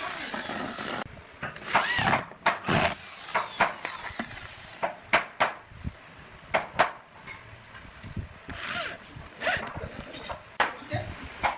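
Woodworking sounds: a short burst of power-tool noise at the start, then a run of sharp, irregular knocks and clacks of hardwood drawer parts being handled and tapped together.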